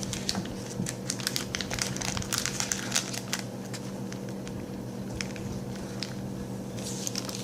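Crinkling and clicking as a piece of Nestlé Aero peppermint chocolate bar is handled and eaten: a dense run of crackles for about the first three and a half seconds, then only a few scattered ones.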